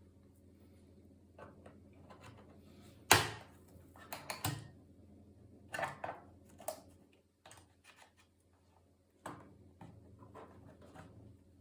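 Scattered clicks and knocks from a laptop's plastic case and small parts being handled during disassembly, the loudest a sharp click about three seconds in, over a faint steady low hum.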